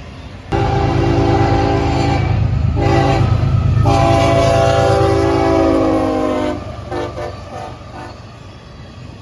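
Nathan K5HLB five-chime air horn on locomotive CSXT 5284 sounding: a long blast, a short one, then another long blast that sags in pitch as it ends, with a few fading echoes after it. The low rumble of the passing train runs underneath.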